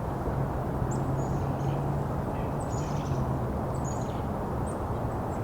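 Black-capped chickadees in a mixed winter feeding flock calling, short high notes repeated several times over a steady low background rumble.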